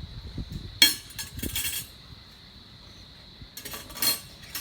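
Small dishes and utensils clinking and clattering as they are handled: a sharp clink about a second in, a brief clatter after it, and another short burst of clinks near the end.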